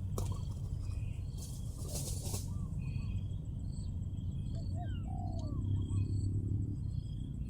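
Spotted dove cooing, with small birds making short repeated chirps in the background.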